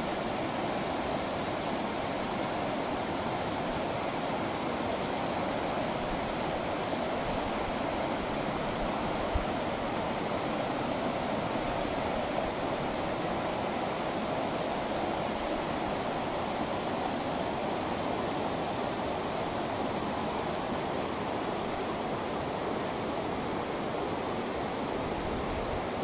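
Creek water running with a steady, even rush. Faint high-pitched pulses repeat above it, a little more than once a second.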